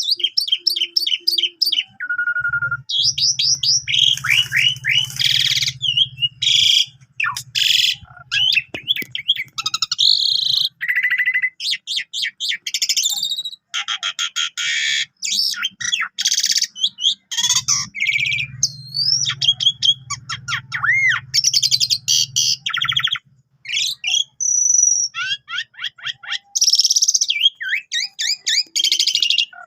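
Asian pied starling (jalak suren) singing continuously: a dense, varied run of whistles, chirps, rapid trills and harsh raspy notes, packed with learned phrases.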